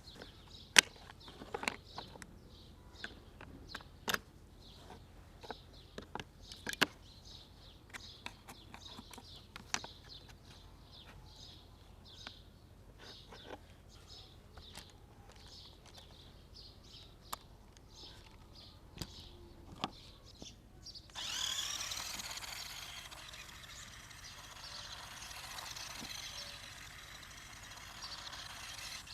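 Scattered light clicks and taps, then about 21 seconds in a toy RC car's small electric motor and gears start whirring, the pitch rising and falling.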